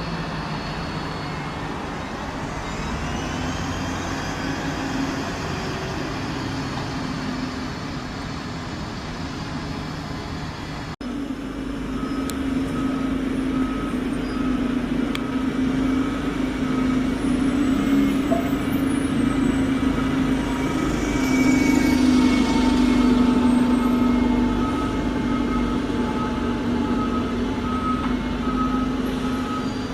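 A large diesel bus engine running. After a sudden cut about eleven seconds in, the engine runs on with a short beep repeating about once a second, like a reversing alarm.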